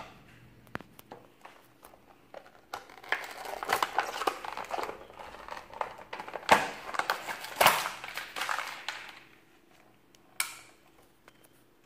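Plastic packaging being opened by hand: crinkling and rustling with several sharp clicks and snaps, busiest in the middle, then one last click near the end.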